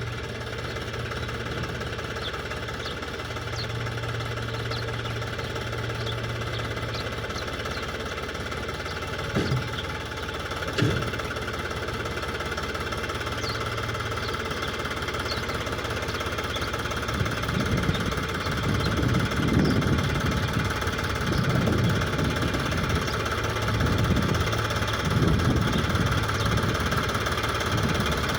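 Tractor engine running steadily, with two sharp knocks about nine and eleven seconds in. In the last ten seconds it grows louder and uneven, with heavier low pulses.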